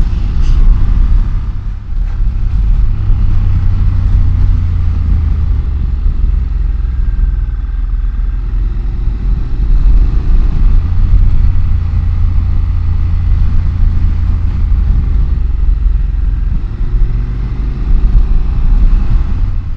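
Motorcycle with a dual-clutch (DCT) automatic gearbox under way on the road, heard from the rider's microphone: a steady, loud low rumble of engine and wind, with the engine pitch shifting a few times.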